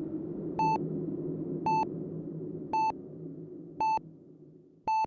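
Short electronic beeps, five of them about a second apart, each a single steady tone, over a low background hum that fades away toward the end.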